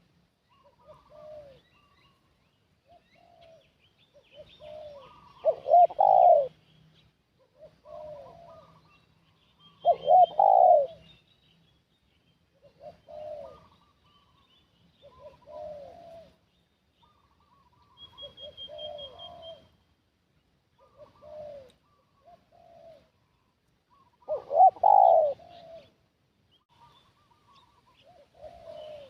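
Spotted doves cooing: a loud, close coo phrase three times, with fainter coos in between. This is typical of a tekukur decoy dove calling to lure wild doves. Faint high chirps of small birds sound in the background.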